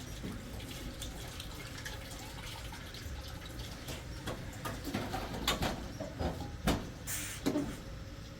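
Water running from a tap, with several knocks and clatters in the second half.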